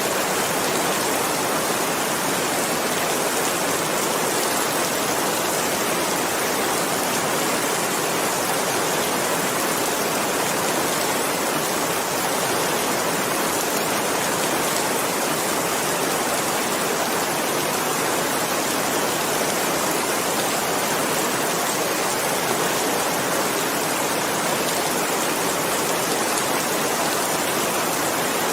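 Steady, even rain hiss with no distinct drops or changes.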